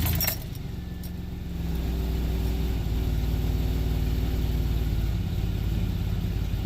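1996 GMC Sierra C1500's 4.3-litre V6 running just after being started, settling into a steady idle, its note firming up about a second and a half in.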